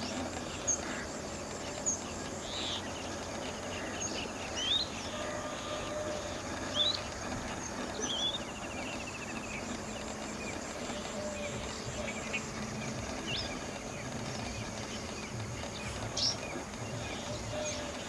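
Bluethroat calling: scattered short, high chirps and rising whistled notes every second or two, with a brief rapid trill about eight seconds in, over a steady background hiss.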